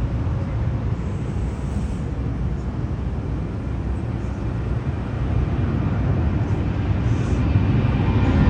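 Airliner jet engines running: a steady deep rumble that grows louder near the end, with a faint whine coming in on top.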